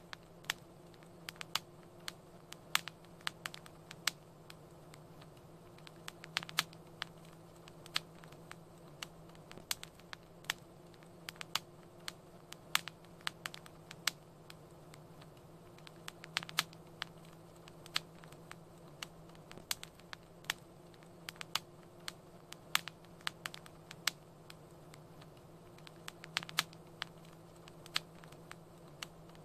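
Wood fire crackling: irregular sharp pops and snaps, sometimes several in quick clusters, over a steady low hum and faint hiss.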